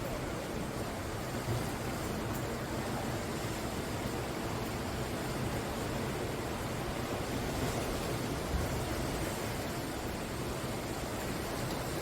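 Sea waves breaking on the shore, a steady, continuous wash of surf with no single crash standing out.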